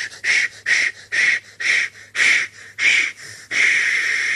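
Steam locomotive chuffing, the exhaust beats slowing as it draws into a station. About three and a half seconds in, the chuffs give way to a steady hiss of escaping steam.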